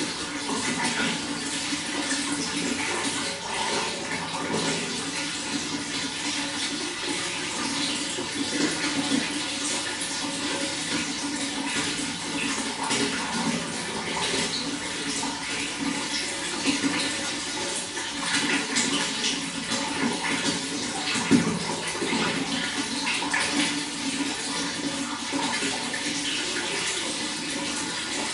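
Running water flowing in a steady, continuous rush with small irregular splashes, and one slightly louder splash about three quarters of the way through.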